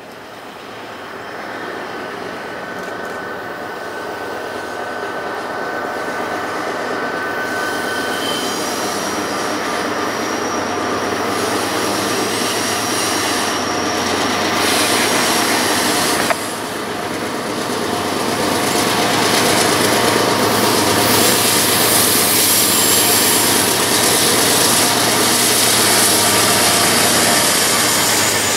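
Norfolk Southern freight train approaching and rolling past close by: a diesel locomotive followed by tank cars. The rumble and wheel noise grow steadily louder, and thin high-pitched wheel squeals sound through the first half. The sound dips suddenly about halfway through.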